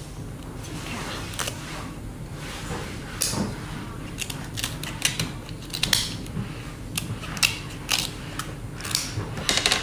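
Crab shell being cracked and broken apart by hand: a run of sharp, irregular cracks and clicks that come more often from about three seconds in.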